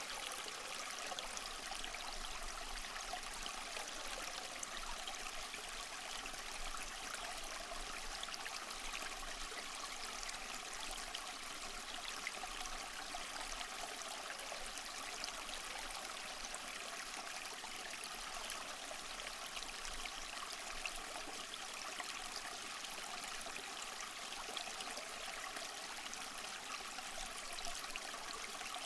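Small waterfall splashing and trickling steadily over mossy rocks: an even rush of water with fine splashes.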